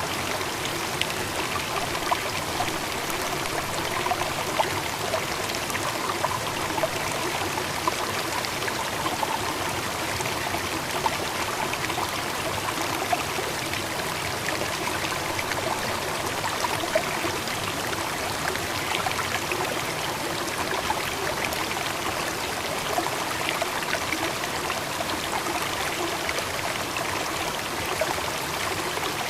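Steady running water, like a stream flowing over rocks, with small splashes scattered through it.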